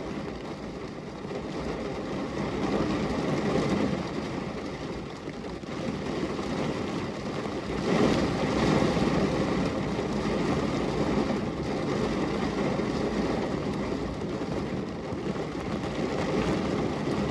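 Heavy rain pouring down on a window pane, a steady rushing hiss that swells louder a couple of times.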